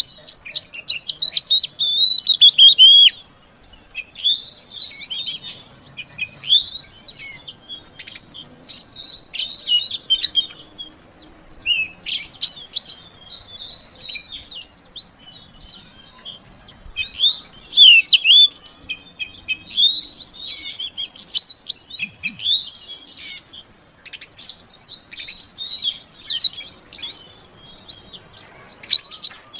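Female oriental magpie-robin (kacer) calling to a male: a dense, continuous run of rapid, varied high chirps and whistles, with a brief pause about three-quarters of the way through.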